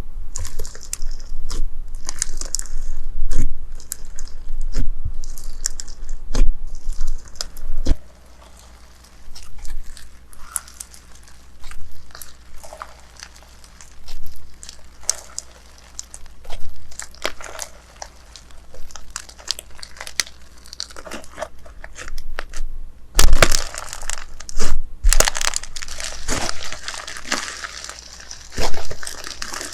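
Slime being squeezed and pressed by hand, crackling and popping in sharp clicks. The clicks are sparse and quieter through the middle, then grow dense and louder near the end, with two loud crunches.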